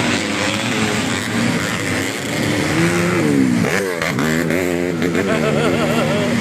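Underbone motorcycle engines racing on a motocross track, their pitch rising and falling with the throttle, with a quick sweep in pitch about four seconds in as a bike goes by.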